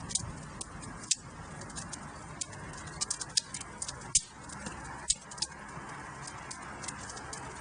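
Wood fire crackling in a fireplace. Irregular sharp pops and snaps, a few louder ones about a second in and again between three and five and a half seconds, over a steady soft hiss of burning.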